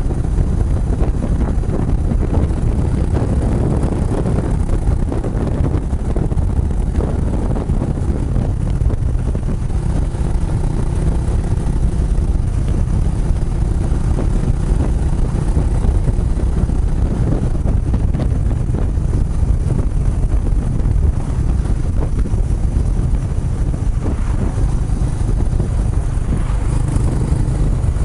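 Kawasaki Estrella's single-cylinder engine running steadily through an aftermarket Yamato muffler while riding, with wind buffeting the microphone.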